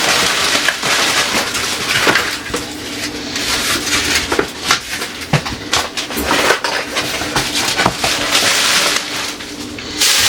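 Plastic packaging crinkling and being crumpled and handled, an irregular crackle broken by many small clicks and knocks.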